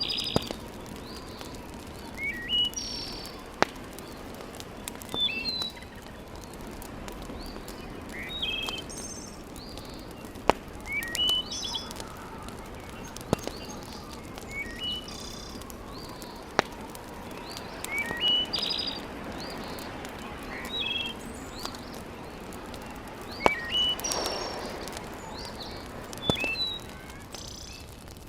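Birds singing short, rising chirped phrases that repeat every two to three seconds over a steady low hiss, with occasional single sharp pops of a wood fire crackling.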